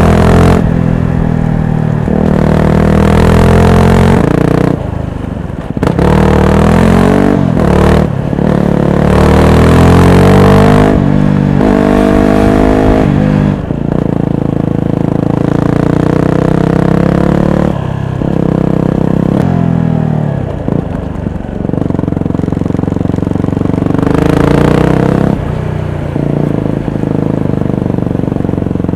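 Motorcycle with an aftermarket full exhaust accelerating hard through the gears. The engine note climbs in pitch, then breaks and drops at each shift, over and over.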